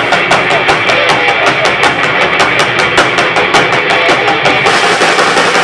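Live rock band playing with drum kit and electric guitar, the drums keeping a fast even beat of about five sharp strokes a second. Near the end the strokes give way to a steady cymbal wash.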